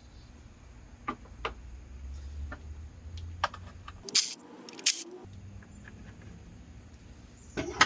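Scattered light clicks and clacks of ignition coils and spark plug wires being handled, with two sharper clacks near the middle.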